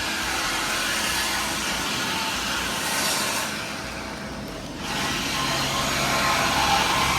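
A car engine running steadily, with noise that dips briefly about four seconds in before a steady low hum comes back.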